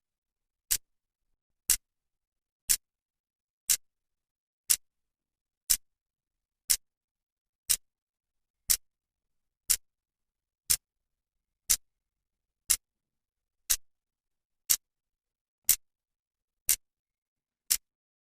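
Clock second hand ticking steadily, one sharp, high click each second with silence between the ticks.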